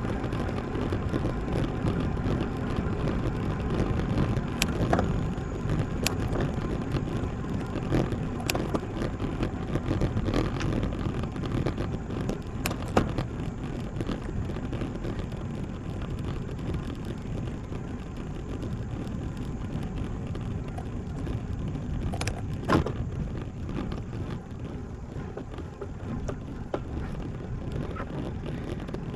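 Road bike riding: a steady low rush of wind on the microphone and tyres rolling on pavement, with a few sharp clicks or knocks scattered through it.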